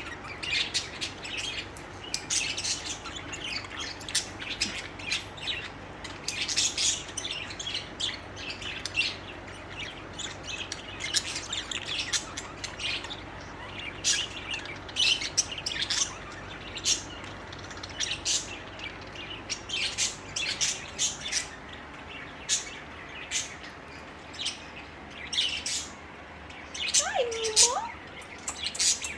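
Pet budgies chirping and chattering, a steady stream of quick, high, short calls. Near the end there is one brief, lower sliding sound.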